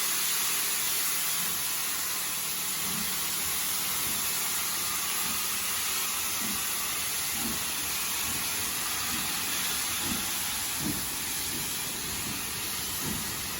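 Steam locomotive No. 131 pulling away: a steady hiss of steam, with exhaust chuffs that begin about a second and a half in and come gradually faster as it gathers speed.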